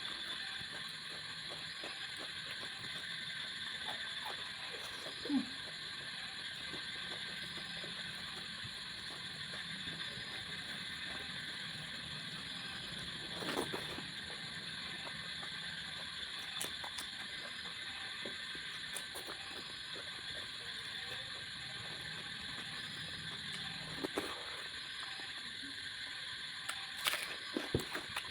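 A person eating fish curry and rice: a few short wet smacks and clicks of chewing, over a steady high-pitched background hiss.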